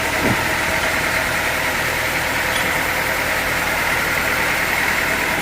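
Sawmill machinery running steadily, an even engine-like drone with no distinct strokes.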